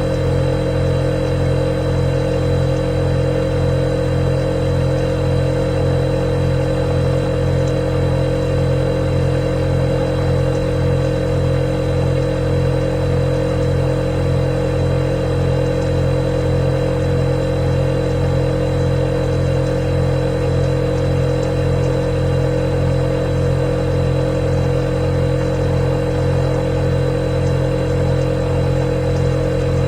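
Refrigerator running: a steady, unchanging compressor hum with a low drone and a thin high whine above it.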